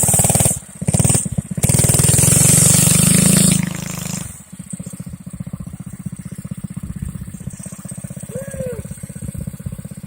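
Predator 212cc single-cylinder four-stroke engine on a Baja Dirt Bug mini bike under throttle, revving hard with two brief dips for about three and a half seconds, then dropping back to a steady, quieter idle.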